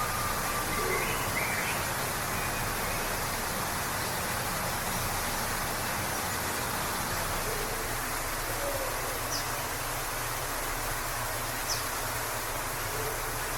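Waterfall rushing steadily, with faint scattered bird calls over it: a short whistled call near the start, a few soft low calls midway, and brief high chirps in the second half.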